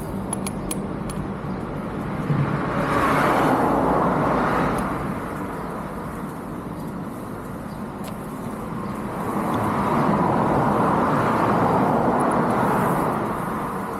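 UM Renegade Commando 125 motorcycle's engine running steadily under road and wind noise, with two long swells of rushing noise, one a few seconds in and one in the second half.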